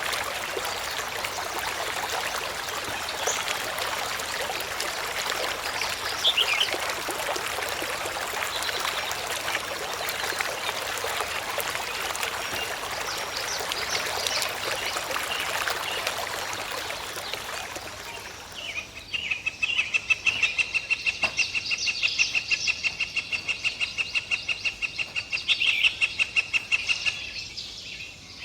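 Steady rushing of running water, fading out after about 18 seconds. A repeated high, pulsing animal call then comes in, about three pulses a second, and stops near the end.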